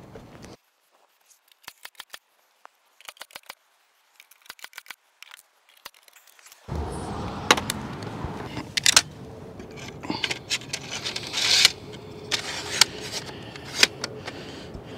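Deck framing being nailed off: first a run of faint quick clicks, then from about halfway several sharp, loud bangs a second or two apart.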